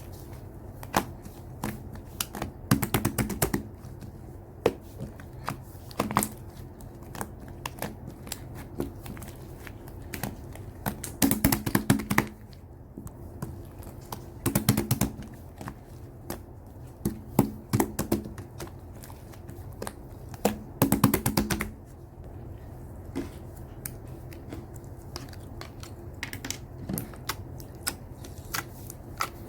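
Slime being pressed and worked by hand, giving sharp crackling clicks and pops from trapped air, with about five denser bursts of crackling and scattered single clicks between.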